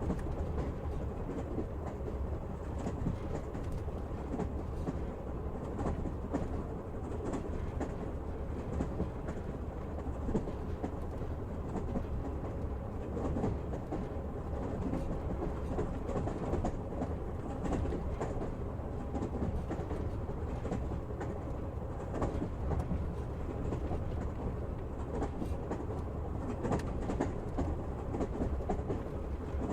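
Train running steadily on rails: a continuous low rumble with the wheels clicking over the rail joints.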